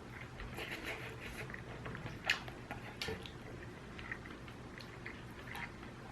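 Quiet chewing and mouth sounds of someone eating ramyun noodles, with a few small clicks scattered through.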